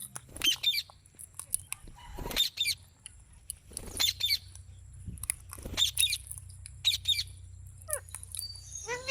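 Indian ringneck parrot (rose-ringed parakeet) giving a string of short, harsh squawks and chirps, about half a dozen brief calls with gaps between them, and a quick falling note near the end.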